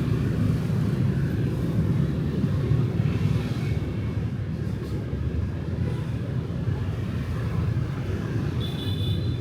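Night street traffic: a steady low rumble of motorbikes and cars passing, with a short high-pitched tone near the end.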